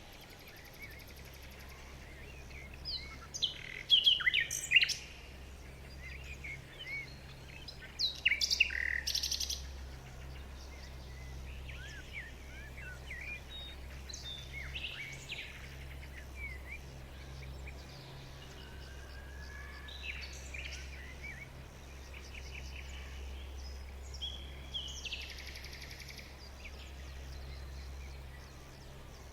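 Small birds chirping and calling. There are loud clusters of quick chirps in the first ten seconds, then fainter, scattered calls for the rest.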